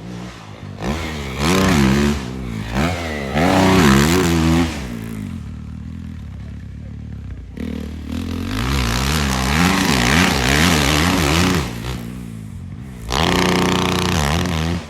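Dirt bike engine revving hard, its pitch rising and falling over and over in several bursts of throttle, with a sudden loud burst about halfway and another near the end.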